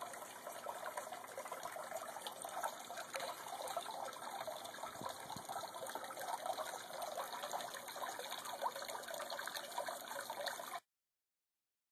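Water trickling and splashing steadily through an old rocker box rigged as a pump-fed fountain, spilling into a catch tub. It cuts off suddenly near the end.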